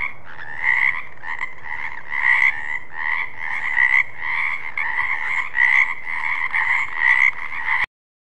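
Frogs croaking in a continuous, rapid run of calls, swelling louder roughly once a second, that starts abruptly and cuts off suddenly near the end.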